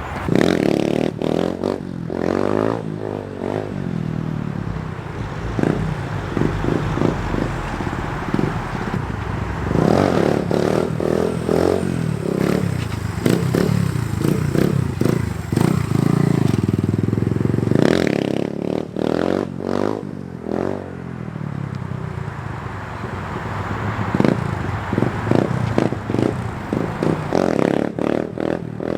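Small dirt bike engine revving up and easing off again and again, its pitch climbing and falling as it accelerates for wheelie attempts, with many sharp rattles and knocks over it.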